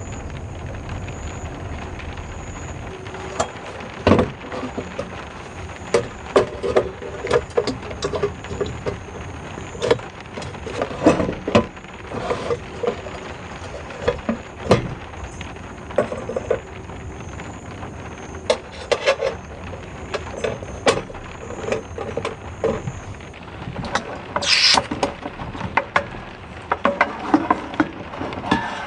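Steady rain hiss with irregular knocks and clicks scattered throughout, and a brief hiss about 25 seconds in.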